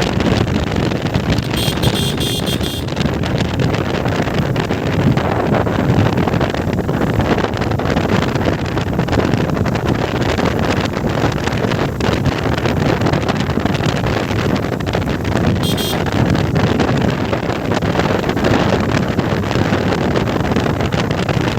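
Motorcycle riding along, its engine running under heavy wind buffeting on the microphone. A brief high-pitched sound cuts in about two seconds in and again around sixteen seconds in.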